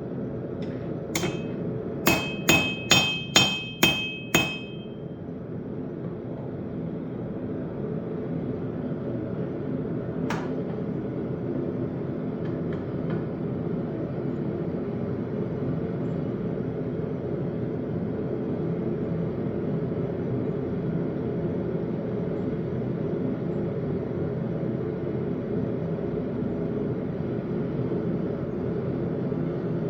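Blacksmith's hammer striking hot steel on an anvil: one blow, then six quick ringing blows, then a single blow some seconds later. A steady low rumbling noise runs underneath throughout.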